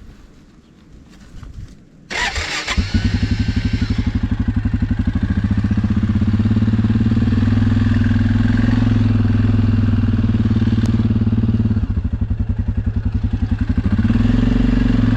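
Suzuki KingQuad ATV's single-cylinder four-stroke engine starting about two seconds in with a short loud burst, then idling steadily with an even firing pulse.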